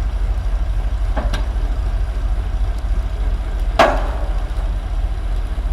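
Heavy diesel recovery machinery running steadily under load while pulling a mired 35-ton excavator out of clay, with a sharp knock about a second in and a louder crack about four seconds in.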